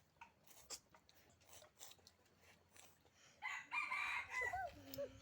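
A rooster crows once, a harsh call starting about three and a half seconds in that falls away in pitch at its end. Faint small clicks and taps come before it.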